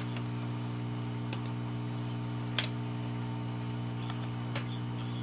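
A steady low hum with a few scattered clicks, the sharpest about two and a half seconds in.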